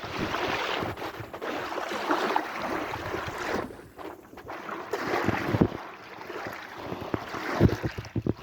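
Sea waves washing in repeated surges, with wind buffeting the microphone in low thumps near the end.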